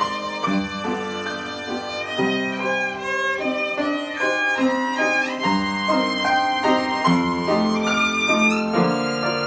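Solo violin playing a slow, lyrical melody in held notes, over lower sustained accompaniment.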